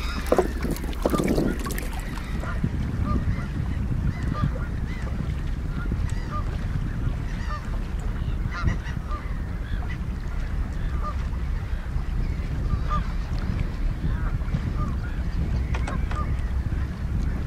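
Many short honking water-bird calls repeated irregularly, over a steady low rumble of wind on the microphone.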